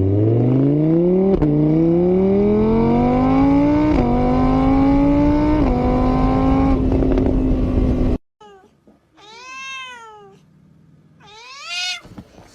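An engine accelerating up through the gears: its pitch rises, drops at each of three shifts, climbs again, then cuts off suddenly. After it, a cat meows twice.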